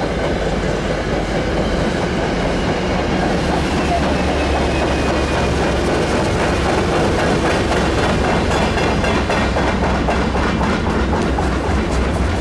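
A train passing close by, loud and steady, its wheels clicking over the rail joints, with the clicks more distinct in the second half.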